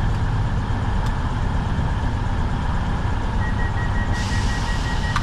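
Train idling at a station platform with its doors open: a steady low engine rumble. A faint, quick run of high beeps starts about three and a half seconds in.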